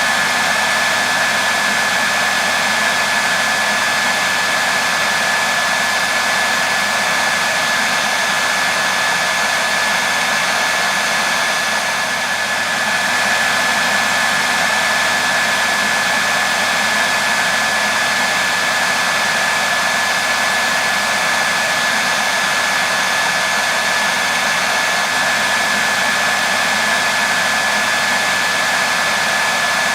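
Hair dryer running continuously: a steady rush of blown air with a thin, constant high whine from its motor and fan.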